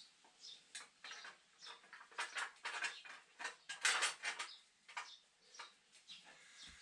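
Small metal parts and hand tools clinking and rattling as they are handled: a run of irregular light clicks and scrapes, loudest in a cluster about four seconds in.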